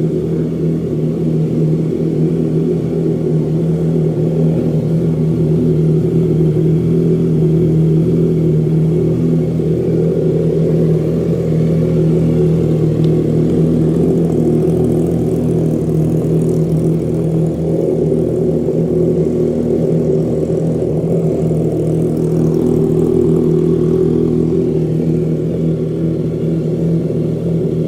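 Triumph Trident 660's inline three-cylinder engine idling steadily through a full aftermarket loop exhaust with a short side exit, warming up after a start.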